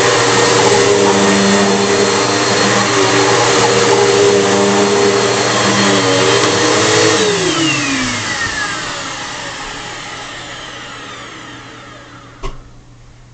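2008 Bissell PowerForce bagless upright vacuum running steadily, then switched off about seven seconds in, its motor whine falling in pitch and fading as it spins down. A short click near the end.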